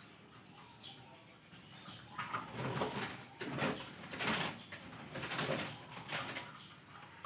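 Zebra dove (perkutut) flapping its wings in a run of rapid, noisy beats, starting about two seconds in and lasting some four seconds.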